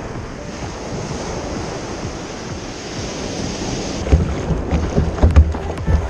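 Wind rushing over the microphone with sea water behind it; about four seconds in, low gusts start buffeting the microphone in heavy thumps.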